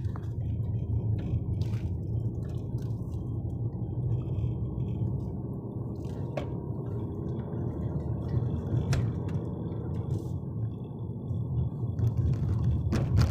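Steady low road and engine rumble inside a moving car, with a few sharp clicks and knocks.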